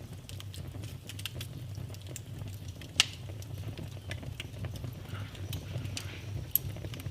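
Wood fire burning in a fireplace: a steady low rumble under frequent small crackles and snaps, with one loud pop about three seconds in and another sharp snap near the end.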